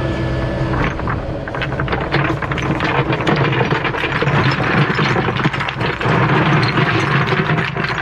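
Diesel excavator engine running, with a rapid clatter of rocks rattling and knocking starting about a second in.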